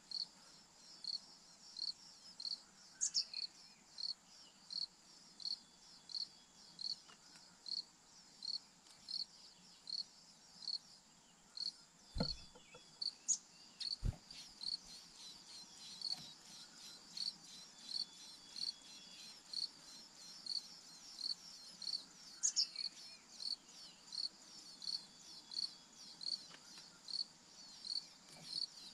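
An insect chirping in an even rhythm, about two high chirps a second, over a steady high hiss. A few brief bird calls and two dull low thumps near the middle break in.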